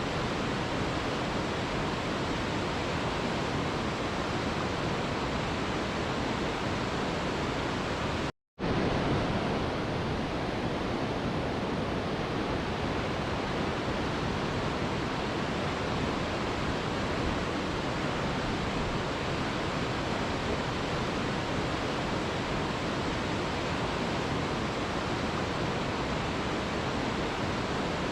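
Steady, even rush of waterfall white noise that drops out to silence for a split second about eight seconds in, then resumes unchanged.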